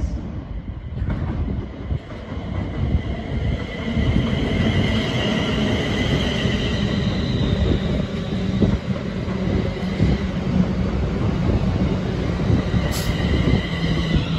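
Class 350 Desiro electric multiple unit pulling into a platform: a steady rumble of wheels on the rails, with a high-pitched whine over it and a single sharp click near the end.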